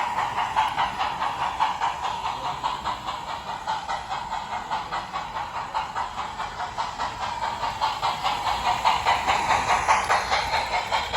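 Model train running on a layout: a steady whine with a rapid, even rhythm of clicks as it rolls along the track.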